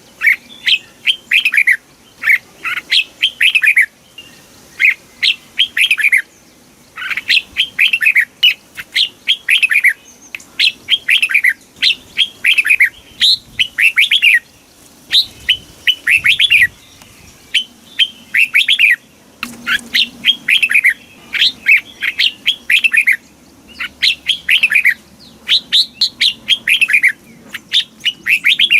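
Red-whiskered bulbul singing: loud, repeated short phrases of quick whistled notes, each sweeping downward in pitch, coming in bouts with brief pauses between them.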